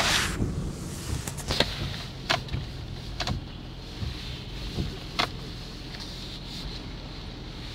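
Car engine idling, heard from inside the cabin: a steady low hum with a faint hiss, broken by a handful of light, sharp ticks in the first few seconds.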